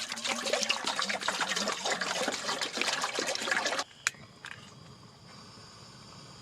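Water being poured into a cooking pot, splashing with small clicks, stopping abruptly about four seconds in. A faint steady hiss remains after it.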